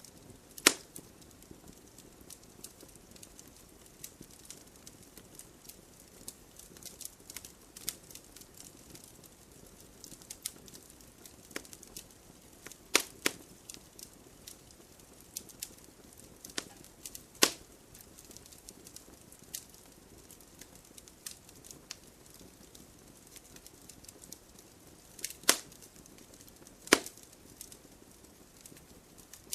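Campfire burning: a low steady hiss of flames with frequent small crackles and a few sharp, loud pops from the burning wood, the loudest about a second in, near the middle and twice near the end.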